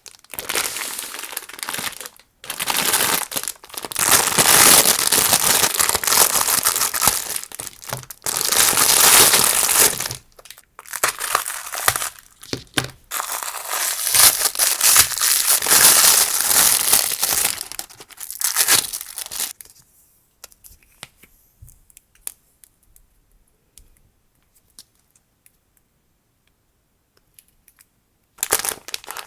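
Packaging crinkling and rustling in long spells, with some tearing, as a parcel is unwrapped by hand. It stops about twenty seconds in, leaving only faint small taps, and starts again near the end.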